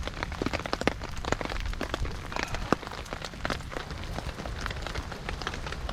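Steady rain falling, with many single drops tapping sharply and irregularly close by.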